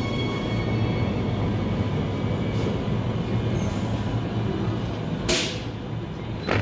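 Transperth electric train standing at the platform with a steady low hum. A short burst of hissing comes about five seconds in, and a briefer one near the end.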